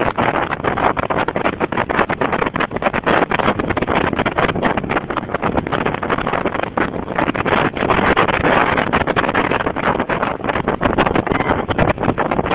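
Strong wind buffeting the microphone: a loud, continuous rough rush with constant fluttering gusts, swelling a little about eight seconds in.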